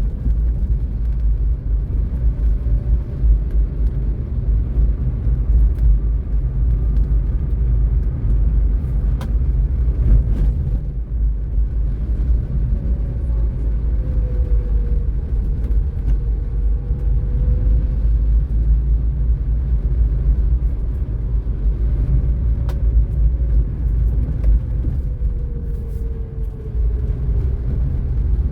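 A car being driven on a city road: a steady low rumble of road and engine noise, with faint whines that slowly rise and fall in pitch.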